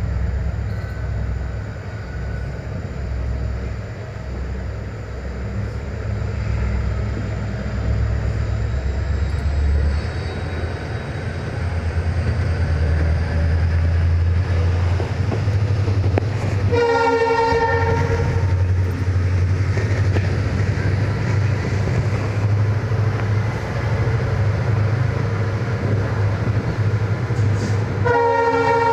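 Indian Railways train with ICF coaches running and gathering speed: a steady low rumble of the coaches on the track that grows louder about twelve seconds in. The locomotive horn sounds once for about a second and a half a little past halfway, and again near the end.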